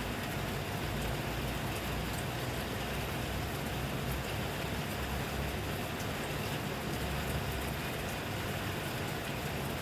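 Steady rain falling: an even hiss with a low rumble underneath and scattered faint drop ticks.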